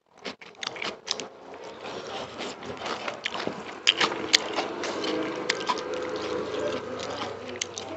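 Close-up eating sounds: wet, clicky chewing and lip-smacking of chicken curry and rice, with fingers squishing the rice. A steady low hum comes in about halfway through.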